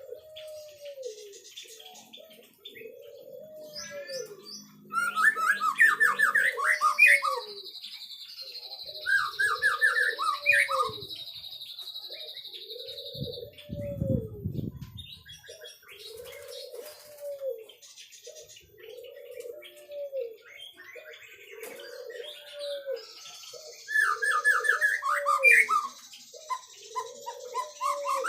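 White-rumped shama singing in bursts of quick rising whistled notes and long high buzzing phrases, over a low hooting call that repeats steadily about every two seconds.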